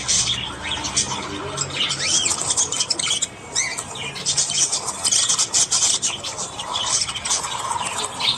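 Budgerigars chattering together: a dense, continuous stream of quick high chirps, squawks and short warbling glides.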